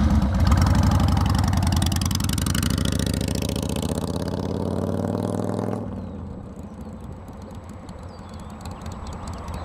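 Harley-Davidson Sportster V-twin engine running, then pulling away with its pitch rising as the bike rides off. About six seconds in the sound drops sharply and stays faint.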